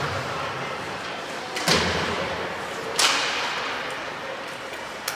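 Two sharp bangs about a second and a half apart against the boards and glass of an ice hockey rink, each ringing out through the arena.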